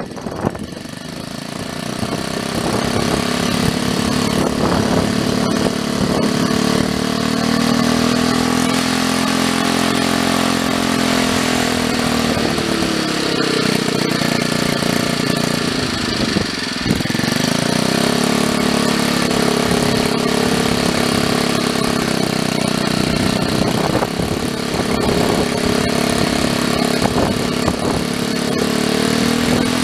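Predator 420 cc single-cylinder generator engine running on charcoal wood gas from a small gasifier. Its speed rises over the first couple of seconds, then sags and recovers twice about halfway through.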